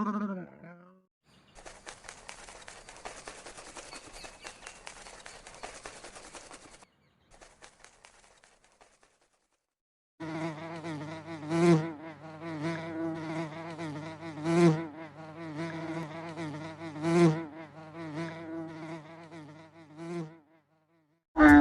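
A flying insect buzzing: a steady hum with a slightly wavering pitch that swells louder about every three seconds, after several seconds of faint crackling and a short silence.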